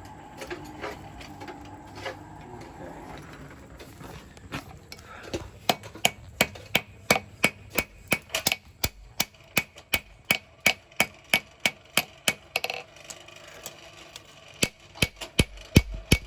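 Hand hammer striking hot steel on an anvil, drawing out a knife blade in evenly spaced ringing blows about two to three a second. The blows start about five seconds in and stop briefly before starting again.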